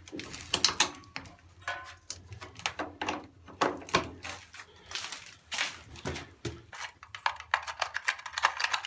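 A run of irregular clicks and knocks in a small room, over a faint low steady hum.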